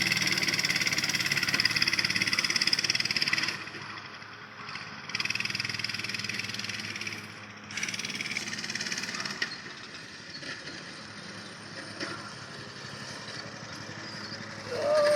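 Mini bike's small engine running hard for about three and a half seconds, then dropping away to a quieter, uneven engine sound that comes and goes.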